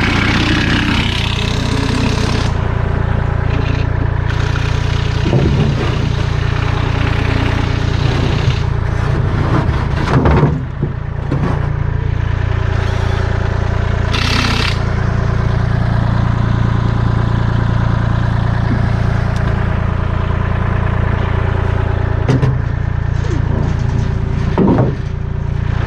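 A vehicle engine running steadily with a deep, even drone, with a few short knocks and clunks and a brief hiss about two thirds of the way through.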